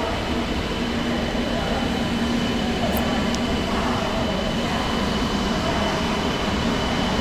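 CRH2E electric multiple unit rolling past at low speed, a steady rumble of wheels on rail with a thin steady high tone running along with it.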